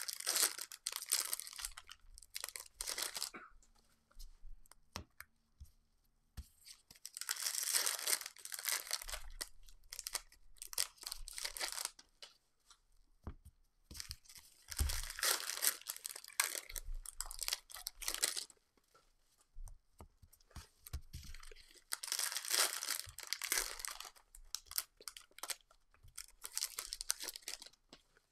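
Foil trading-card pack wrappers being torn open and crinkled by hand, in four bursts of several seconds each with short pauses between.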